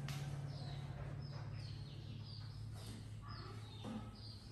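A bird chirping: a series of short, high, falling chirps, two or three a second, over a steady low hum.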